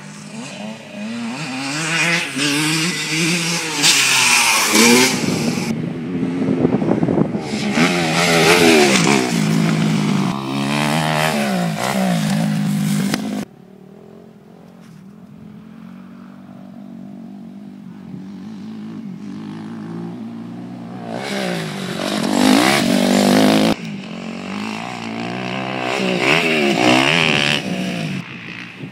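Dirt bike engine revving hard and easing off, its pitch climbing and falling over and over. The sound drops away suddenly about halfway through, then builds back up to loud surges twice more.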